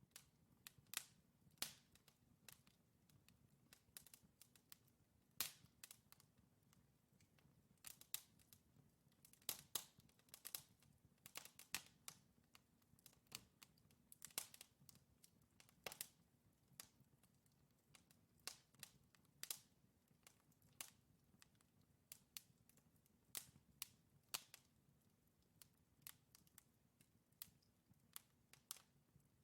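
Wood fire crackling: logs burning in a fireplace, with irregular sharp pops and snaps several times a second over a faint low hiss of flame.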